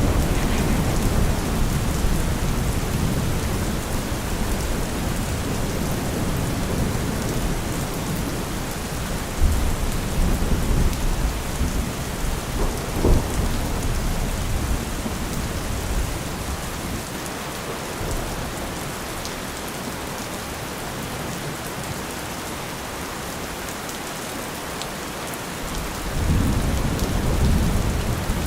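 Steady rain falling, with low rolling thunder rumbling heavily through the first half, dying away, then building again near the end.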